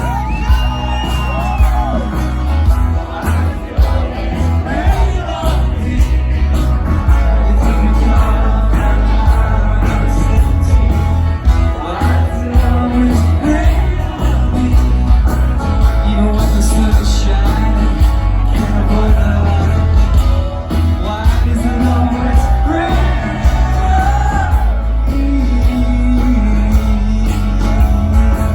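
Live rock band performance: drums and bass with a sung melody over them.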